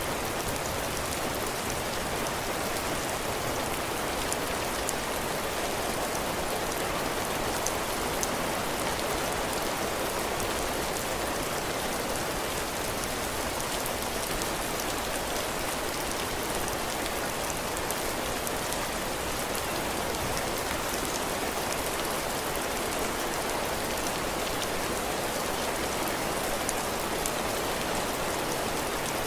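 Heavy rain falling steadily, with raindrops pattering on a roof and the ground.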